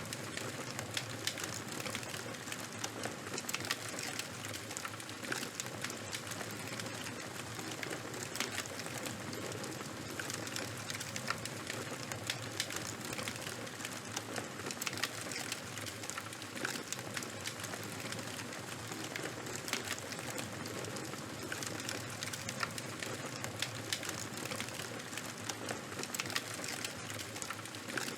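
Fire burning, crackling with many small sharp pops over a steady hiss.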